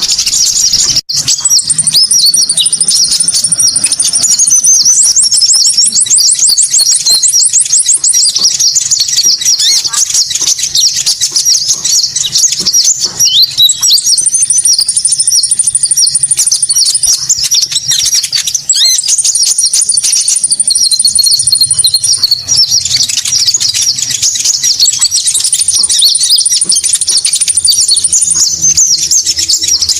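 Dense, continuous high chirping and twittering of small songbirds, with a thin, higher trill that comes back every few seconds. This is a lure-call recording of the konin bird, played to attract wild konin.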